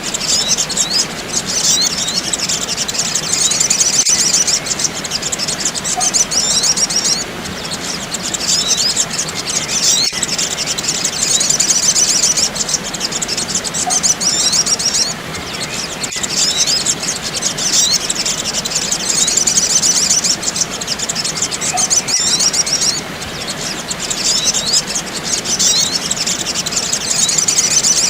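Sogok ontong sunbirds twittering: a dense, fast, high-pitched chatter of chirps, played as a bird-luring call track. The chatter drops away briefly every seven or eight seconds.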